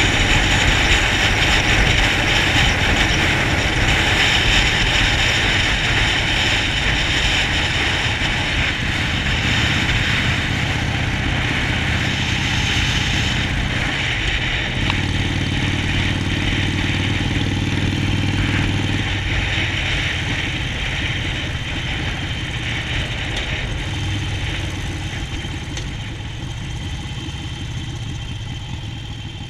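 Harley-Davidson Sportster Forty-Eight's air-cooled V-twin engine running steadily, with a constant hiss over it. The engine note swells for a few seconds around the middle, and the sound slowly fades toward the end.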